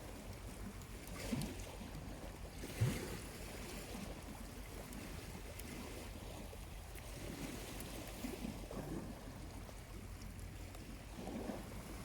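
Small waves lapping gently at the shoreline over a steady low wash, with a soft surge every few seconds.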